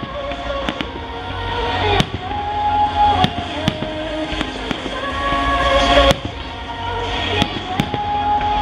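Aerial firework shells bursting in a string of sharp bangs at irregular intervals, over music with long held notes.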